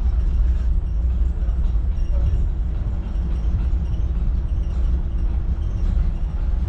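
Engine of a 1952 Mercury Monterey running, a steady low rumble.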